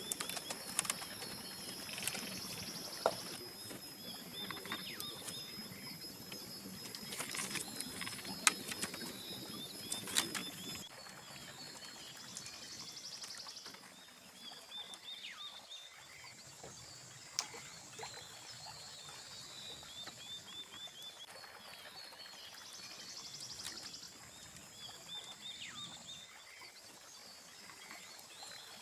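Outdoor ambience by a small stream: series of short repeated chirping calls every few seconds over steady high-pitched tones, with scattered sharp knocks and clicks during the first ten seconds that then die away.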